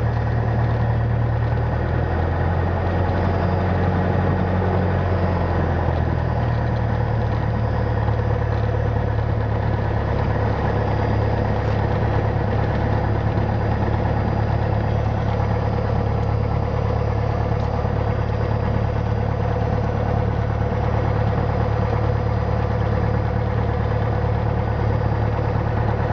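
Cessna 172's Lycoming O-320 four-cylinder engine running steadily at low taxi power. Its note drops slightly about two seconds in and comes back up about four seconds later.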